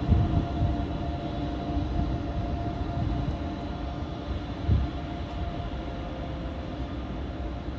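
Train running along the track, a steady low rumble with a faint steady hum above it and a couple of low thumps, one at the start and one about two-thirds of the way through.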